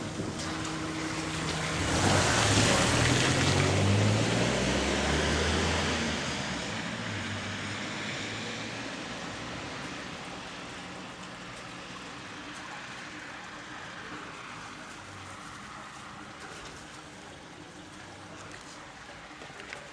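A motor vehicle passing by: its engine and noise swell about two seconds in, are loudest for a few seconds, then fade slowly away.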